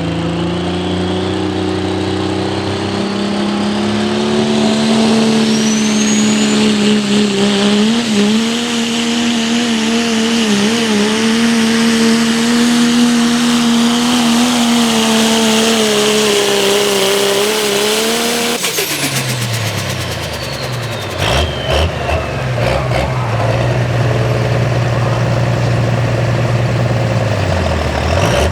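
Turbocharged Cummins diesel in a Dodge pulling truck held at high revs under full load as it drags the sled, with turbo whistle over the engine. About two-thirds of the way through it comes off the throttle: the revs fall sharply, the turbo whistle winds down, and the engine settles to a low idle.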